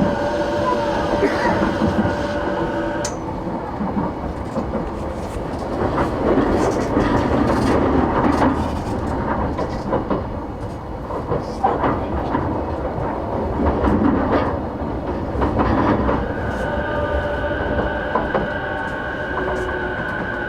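Running sound inside an E233 series 8000 electric train. Steady whining tones from the traction inverter and motors carry on for about the first three seconds, then cut out, leaving wheel-on-rail rumble and clacks over rail joints. The tones come back about sixteen seconds in.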